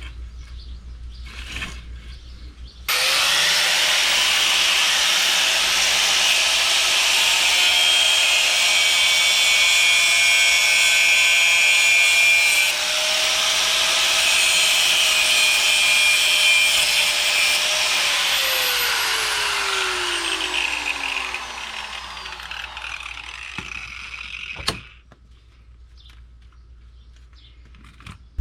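An electric power tool starts suddenly and runs steadily with a high whine for about fifteen seconds, then its motor is released and winds down, falling in pitch over several seconds until it stops.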